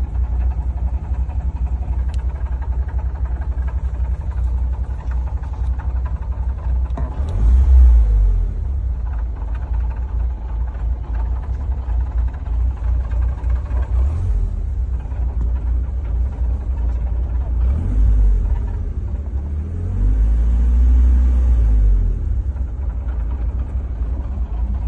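BMW E36's 1.6-litre engine running with a heavy low rumble that doesn't sound too good, revved briefly a few times and held up for about two seconds near the end. The owner takes the noise for a failed dual-mass flywheel.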